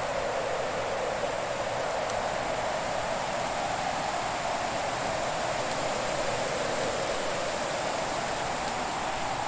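Fire burning in a fireplace: a steady hiss centred low in the midrange, with a few faint crackles.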